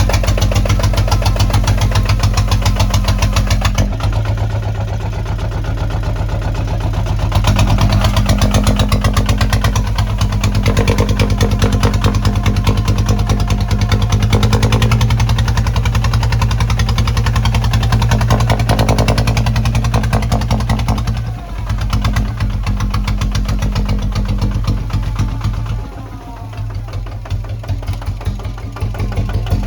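Kubota ZT155 walking tractor's single-cylinder diesel engine running steadily with a fast, even chug. It dips briefly in level twice in the second half.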